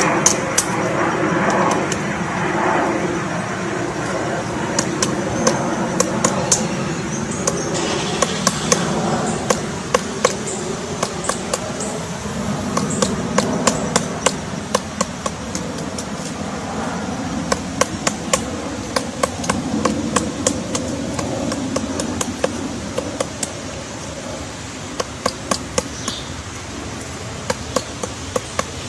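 A woodpecker pecking with its beak: sharp taps that come singly and in short quick runs, over steady background noise.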